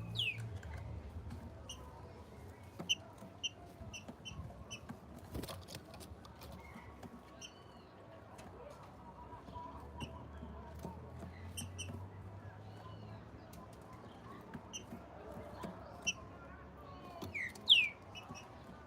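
Small birds chirping: scattered short high chirps throughout, with a falling whistle at the start and a louder pair of falling whistles near the end, over a faint low hum.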